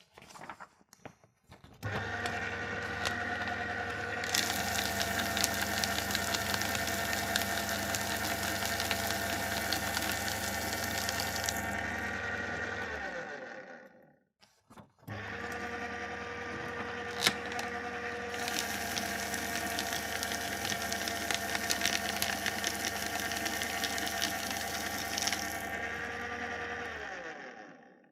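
Electric paper shredder running twice, each run about eleven to twelve seconds long: a steady motor hum under a dense crackling rasp of paper being cut, starting suddenly and winding down as the motor stops.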